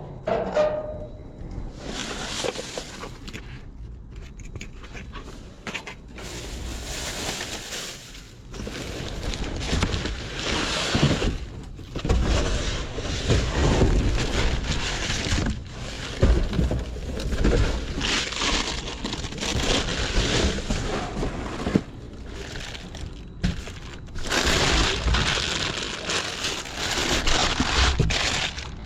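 Trash being rummaged and shifted by hand in a dumpster: crinkling, scraping and knocking in irregular bursts, with a few sharper hits.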